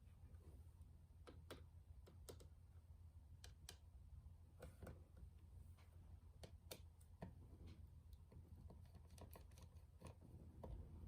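Faint, irregular small clicks and taps from handling small parts and tools, over a steady low hum.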